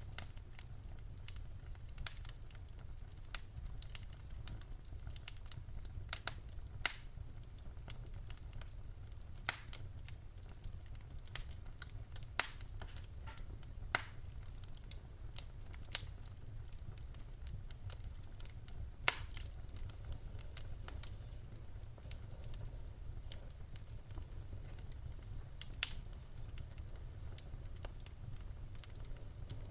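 Wood fire burning in a fireplace: a steady low rumble of the flames with sharp crackles and pops from the burning logs every second or two, the loudest about nineteen seconds in.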